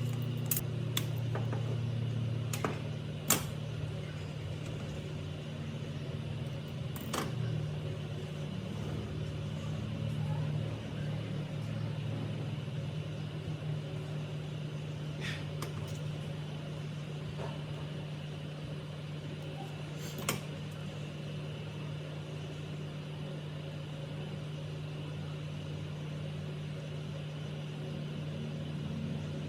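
Restored electric automatic pressure water pump running on test with a steady motor hum, its pitch settling slightly in the first ten seconds. A few sharp clicks or knocks sound over it, the clearest about three seconds in and another about twenty seconds in.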